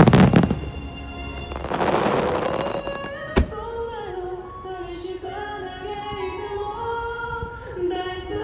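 A sung pop song playing over the show's loudspeakers, with fireworks going off: a loud boom right at the start, a burst of hissing noise about two seconds in, and a single sharp bang about three and a half seconds in.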